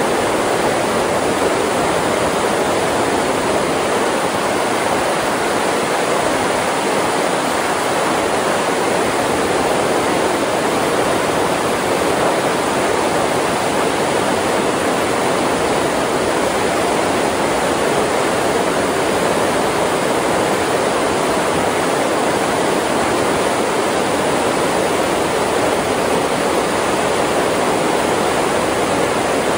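Creek waterfall rushing: a steady, unbroken wash of falling water.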